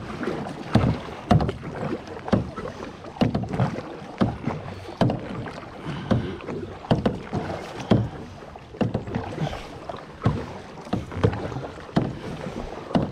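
Kayak paddle strokes in lake water: the blades dip and splash in a steady rhythm of about one and a half strokes a second, with water sloshing and dripping between strokes.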